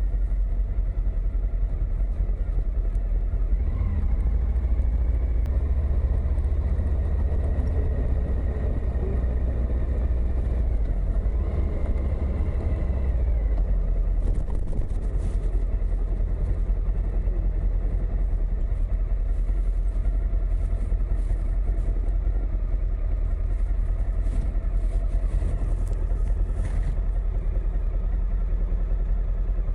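Suzuki V-Strom motorcycle being ridden, its engine running steadily under heavy low rumble of wind and road noise; the engine note shifts about halfway through.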